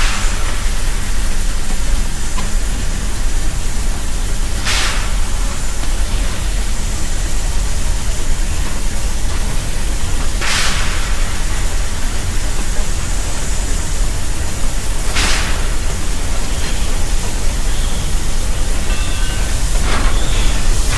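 Steady loud rushing noise with a low rumble, broken by a brief, louder rush of hiss about every five seconds.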